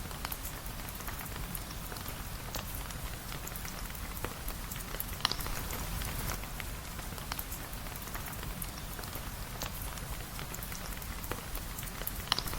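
Steady rain, an even hiss with scattered sharp ticks and pops, the two strongest about five seconds in and near the end.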